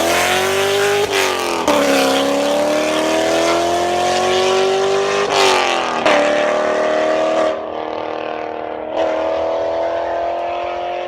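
C7 Corvette V8 exhaust under hard acceleration through the gears. The engine note climbs in each gear and drops back at three upshifts.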